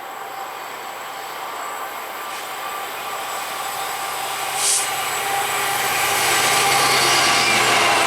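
A train approaching on the main line, its running noise growing steadily louder. There is a short hiss about halfway through.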